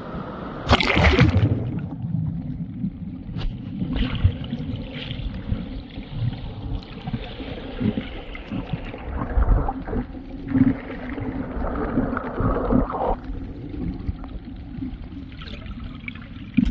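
Mountain valley stream running, a continuous rushing of water, over irregular low rumbling. A loud full-range rush comes about a second in, and a few short knocks follow.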